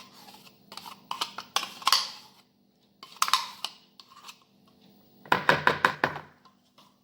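Kitchen handling sounds: clicks and knocks of a container and utensils against a mixing bowl, in three short clusters with quiet between them. The last cluster is the loudest.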